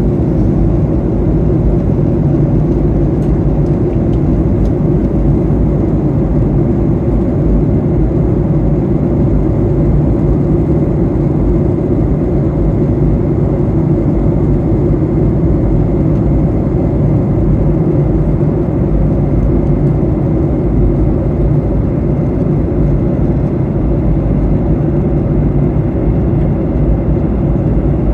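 Steady cabin noise of a Boeing 737-800 in cruise flight: constant low engine and airflow noise with a faint hum, unchanging throughout.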